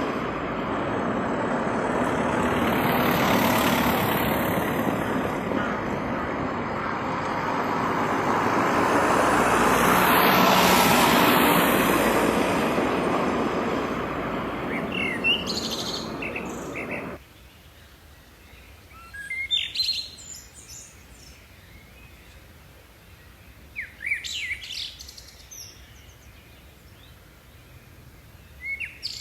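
A loud rushing noise that swells twice and cuts off suddenly a little past halfway, followed by scattered short bird chirps over a quiet background.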